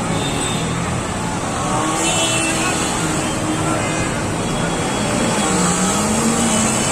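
Road traffic: motor vehicle engines running steadily, one engine's pitch dipping and rising again about five to six seconds in.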